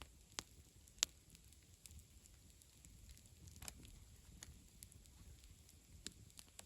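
Wood campfire crackling: sparse sharp pops at uneven intervals, the loudest about a second in, over a low steady rumble.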